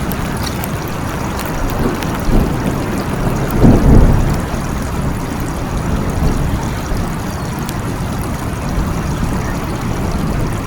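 Steady rain falling, with a brief low rumble of thunder that swells and fades about four seconds in.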